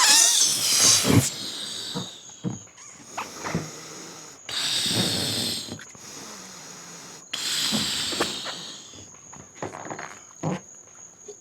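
A balloon being blown up by mouth: three long, forceful breaths pushed into it, with short gasps for air between them. Crickets chirr steadily behind.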